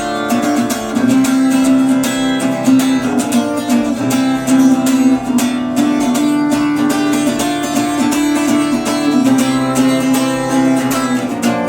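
Acoustic guitar strummed steadily in regular chords, the instrumental opening of a song before the vocal comes in.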